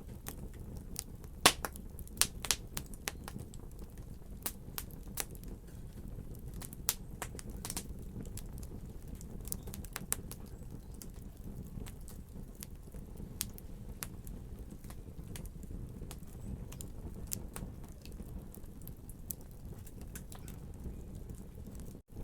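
Wood fire in a fireplace crackling: irregular sharp pops and snaps, loudest about a second and a half in and thicker in the first few seconds, over a steady low rumble of the burning.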